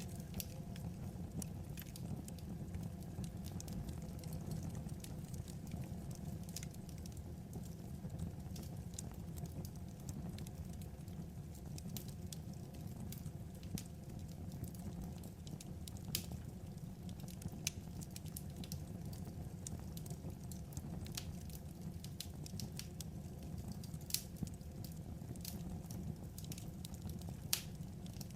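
Wood fire burning: a steady low rush under irregular sharp crackles and pops from the burning logs, with a few louder pops in the second half.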